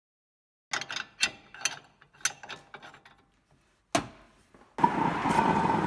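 A quick run of sharp metallic clicks, like a ratchet wrench being worked, then a single click; about five seconds in, a steady mechanical running noise with a held whine starts.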